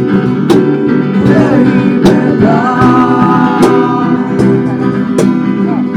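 Band music with guitar, sharp drum or cymbal hits about every second and a half, and a voice singing a held, wavering line through the middle.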